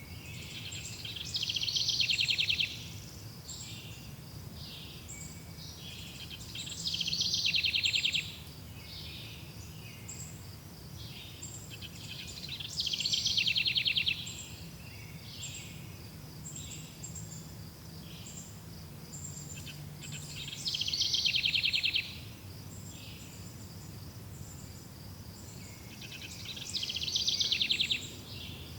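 Birdsong: one bird repeats a loud trilled phrase about every five to six seconds, five times in all, each phrase swelling over about a second and a half. Other birds chirp between the phrases over a steady low rumble.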